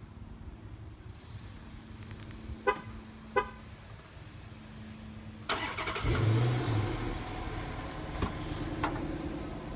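Two short car horn chirps, then the car's engine, which the owner says is a Hemi, cranks and starts a little over halfway through, with a brief rise in revs before settling into a steady idle.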